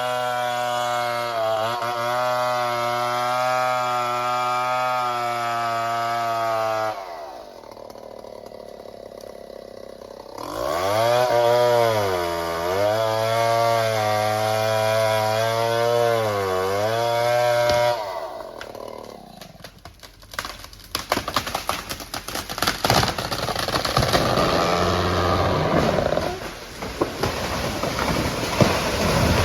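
An engine running at high, steady revs, then easing off and revving up and down several times. In the last third the engine gives way to scattered knocking, cracking and clattering.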